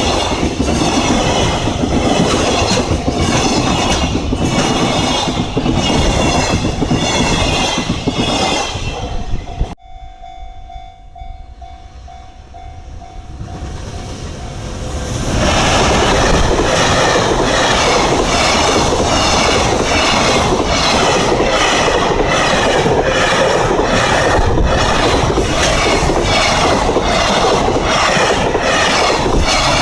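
Freight train passing close by, its wheels clattering rhythmically over the rail joints. The sound breaks off abruptly about ten seconds in, leaving a few quieter seconds with a steady tone. Then the clatter of a passing train builds up again and runs on.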